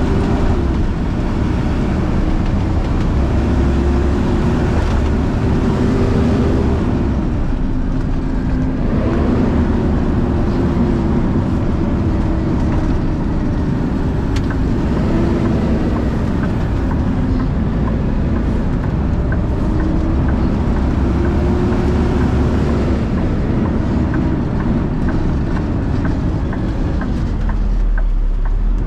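Vehicle engine and road noise heard from inside the cab while driving, with a steady low rumble and the engine's pitch rising and falling several times as the speed changes.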